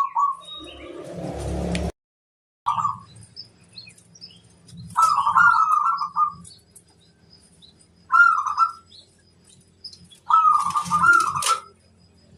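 Zebra dove (perkutut) cooing: four rolling, warbling phrases a few seconds apart, the last and longest near the end, with faint high chirps from other small birds. A brief rustling noise sounds in the first two seconds, then the sound drops out for under a second.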